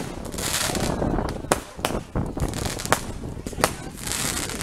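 Bonfire burning, with sharp cracks and pops at irregular moments and spells of hiss between them.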